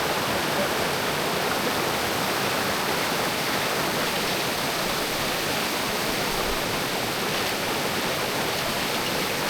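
Mountain creek water rushing over rocks, a steady, even rush that stays the same throughout.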